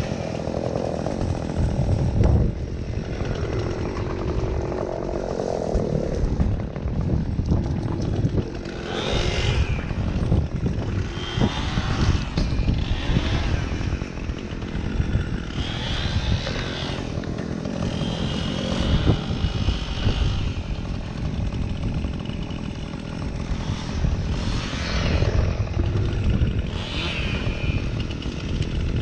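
Chainsaw running and revving on and off, with heavy wind rumble on the microphone underneath.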